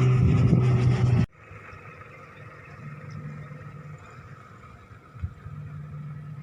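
Aircraft engine running loud and steady, cut off abruptly about a second in, then a much fainter steady engine hum with a single knock near the end.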